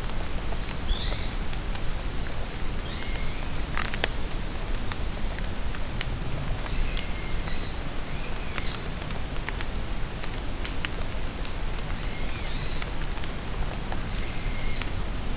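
Steady rain falling in a forest, with close drops ticking sharply. Small songbirds sing short, high phrases five or six times, with gaps between them.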